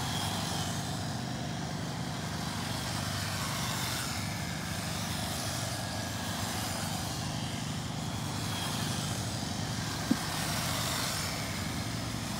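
Several electric RC stock cars running laps on a track: a steady drone of motors and tyres with a faint higher whine coming and going. A single sharp tick about ten seconds in.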